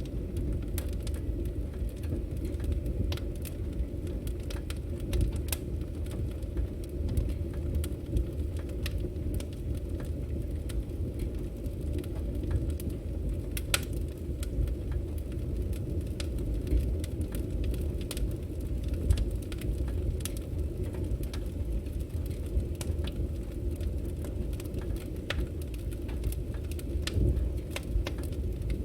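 Burning firewood: a steady low rumble of the flames with frequent irregular crackles and pops from the logs.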